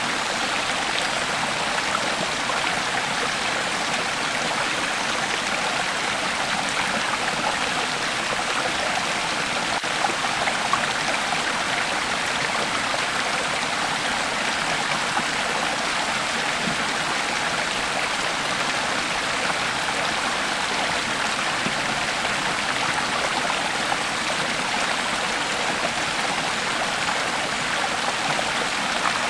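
Creek water flowing steadily over stones, a constant rushing and burbling.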